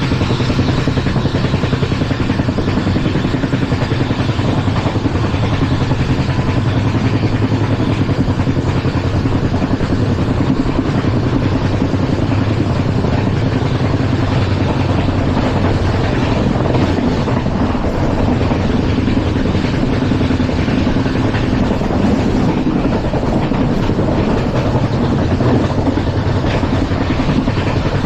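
LHB passenger coach running at speed, its wheels on the rails making a loud, steady rumble with a low hum.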